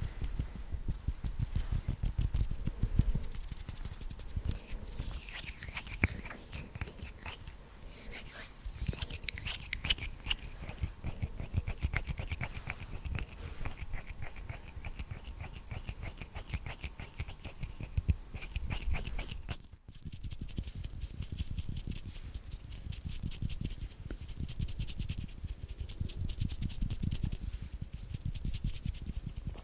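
Fast ASMR hand sounds close to the microphone: hands rubbing, fluttering and tapping in a rapid patter. The sound cuts out briefly about two-thirds of the way through, then the rapid patter goes on.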